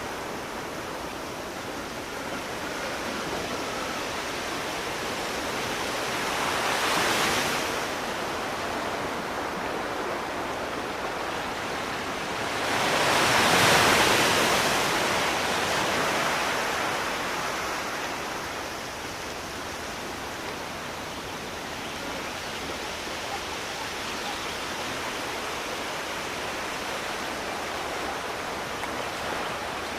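Sea waves washing onto a shore over a steady hiss of surf, with a smaller wave breaking about a quarter of the way in and a bigger, longer one swelling and falling away near the middle.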